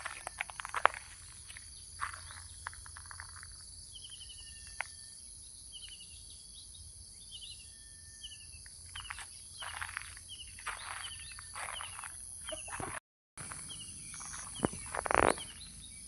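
Birds calling in short, quick falling chirps over a steady high insect drone, with scattered close rustles and knocks. The sound cuts out for a moment near the end.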